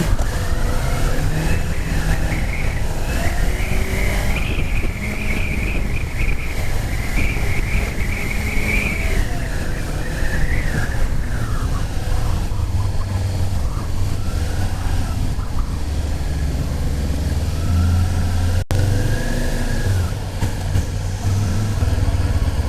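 Motorcycle engine and road rumble with a car going by. A higher whine rises in the first couple of seconds, holds for about ten seconds, then fades, while the low rumble carries on.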